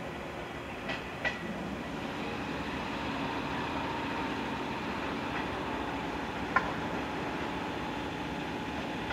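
Electric train pulling away, a steady running noise with a faint whine and a few sharp clicks, one near the start and a louder one past the middle.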